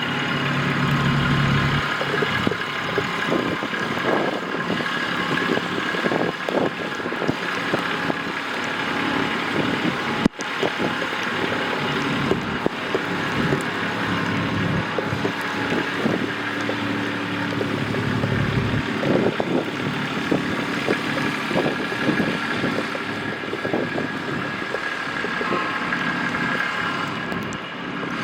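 City street traffic, with a heavy vehicle's engine running steadily over the street noise. There is a single sharp click about ten seconds in.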